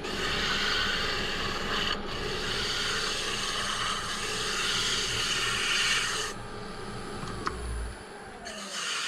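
Turning tool cutting a thin-walled poplar lampshade spinning on a wood lathe: a rough scraping hiss in passes, a short one, a longer one that stops about six seconds in, and another near the end, over the steady hum of the running lathe.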